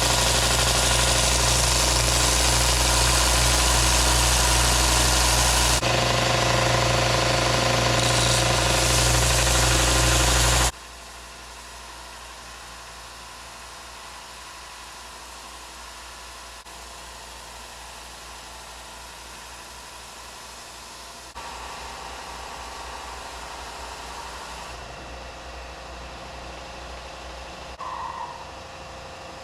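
Belt sander grinding a steel Damascus knife blank flat on a coarse belt: a loud, steady grinding hiss over the motor's hum. About ten seconds in it drops suddenly to a much quieter steady run, then steps up a little about twenty seconds in.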